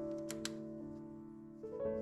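Background piano music, calm held notes changing every half second or so, with a couple of faint clicks about half a second in.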